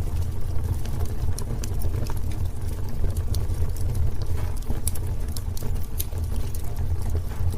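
Wood fire burning in a fireplace: many sharp, irregular crackles and pops from the burning wood over a steady low rumble of the flames.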